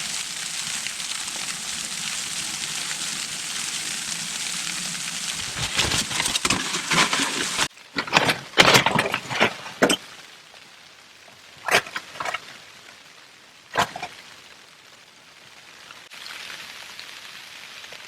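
Freezing rain and sleet pattering steadily on the tent fabric, cutting off abruptly a little past halfway. After that the patter is much fainter, broken by a few short, sharp crackles and rustles.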